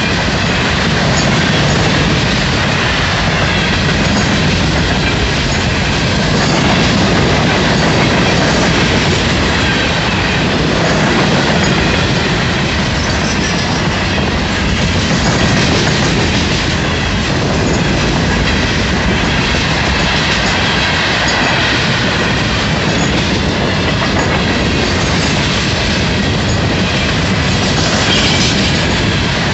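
Loaded freight train's cars rolling past close by at speed, steel wheels on the rails making a loud, steady, unbroken clatter.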